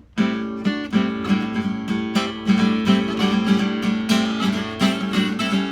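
Solo acoustic guitar strummed in a driving rockabilly rhythm, the instrumental intro to a song, starting abruptly on the first strum.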